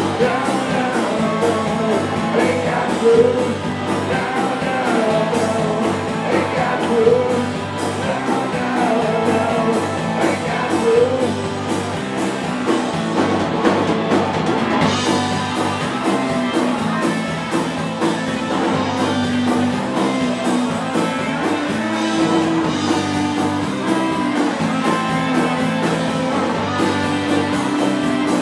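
Live rock band playing an instrumental passage of a blues-rock song, with guitar lines over a steady drum beat.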